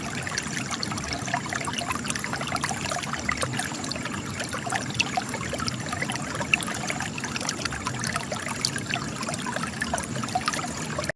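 Spring water trickling and splashing out of cracks in rocks: a steady trickle full of small, sharp drips and splashes.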